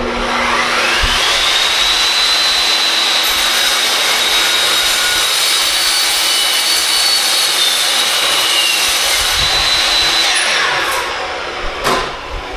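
Cold saw cutting aluminum square tube: the motor's whine rises as it spins up, runs steadily through the cut for about eight seconds, then winds down. A single knock follows near the end.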